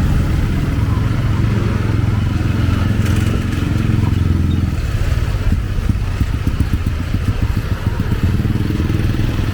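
Motorcycle engine running close by, a low steady hum that turns to rapid chugging pulses for a few seconds in the middle before evening out again.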